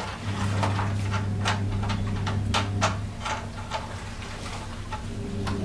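Irregular clicks and light metallic knocks from an LPG gas stove being taken apart by hand, over a steady low hum. The clicks come thick at first and thin out after about three seconds.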